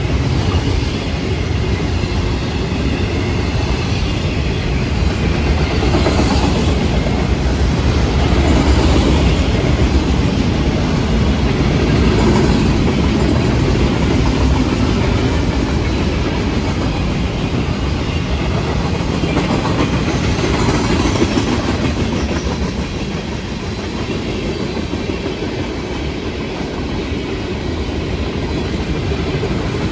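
Freight train cars rolling past close by: the steady, loud rumble and rattle of steel wheels on the rails.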